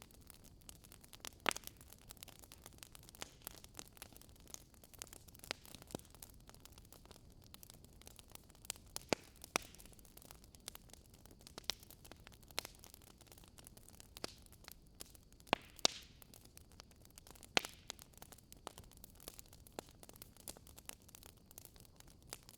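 Wood fire burning in a fireplace: irregular crackles and sharp pops of burning logs over a faint steady hiss, a few pops louder than the rest.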